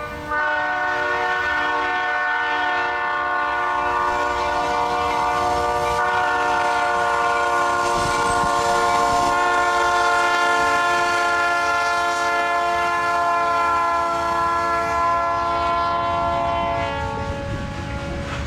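CN freight locomotive's air horn sounding one long held blast, several notes at once. It follows a brief break right at the start and stops shortly before the end. A low rumble from the passing train runs underneath.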